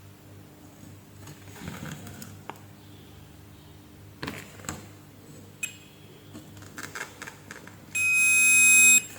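Light clicks and knocks of handling on a workbench, then a single loud electronic beep about a second long near the end.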